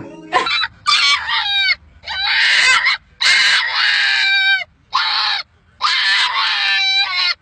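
An animal calling loudly about six times in a row: harsh, high-pitched calls, each sliding down in pitch at its end, with short pauses between them.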